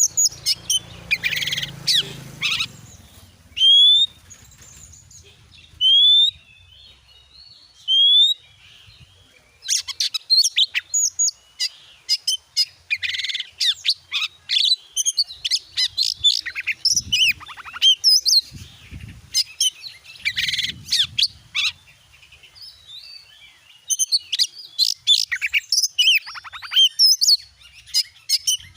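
Magpie-robin (kacer) singing a varied song. It opens with three clear rising whistles about two seconds apart, then breaks into a fast, busy run of twittering and chirping notes with short pauses.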